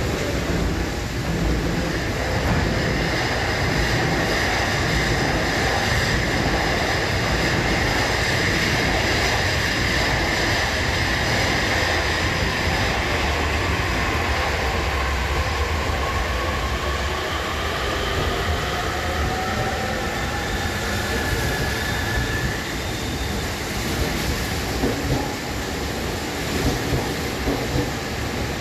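Electric commuter train running at a station platform, its motor whine falling in pitch as it slows, with wheels clicking over rail joints near the end.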